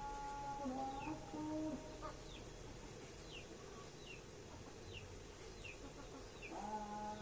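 Chickens peeping: a run of short, high, falling peeps repeating about every second. Someone hums a few steady held notes in the first two seconds and again near the end.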